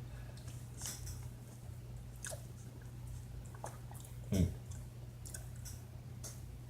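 A person chewing a bite of Little Debbie glazed mini donut: soft, scattered wet clicks and smacks of the mouth, with one louder brief low sound about four and a half seconds in, over a steady low hum.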